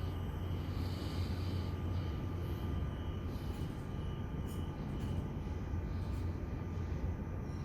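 Electric suburban passenger train moving out of the platform just after its doors have closed: a steady low rumble with a faint, even whine over it.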